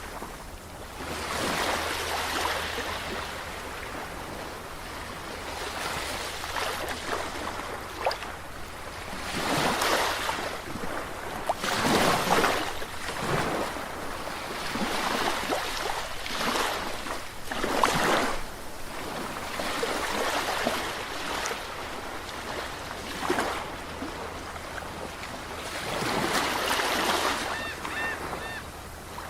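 Ocean waves breaking and washing onto a shore, a steady wash of surf that swells into a louder break every few seconds.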